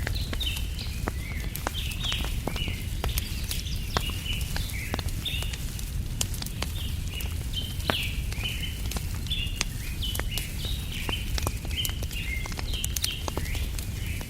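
Wood campfire crackling, with scattered sharp pops over a low steady rumble, while a bird chirps over and over in short falling notes.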